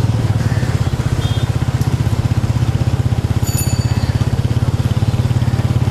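A small engine running steadily close by, with a rapid, even throb; it cuts off suddenly at the end.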